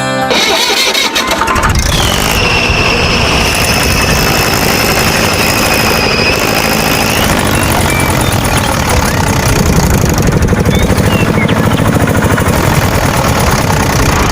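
Engine running steadily with a fast, even low chugging, like a tractor engine. A high steady whine sounds over it from about two seconds in until about halfway through.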